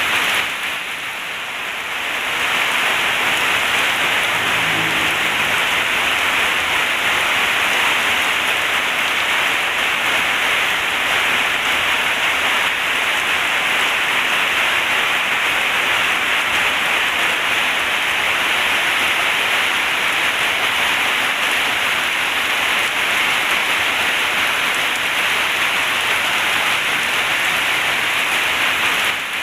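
Heavy rain pouring steadily. It dips briefly about a second in, then carries on at an even level.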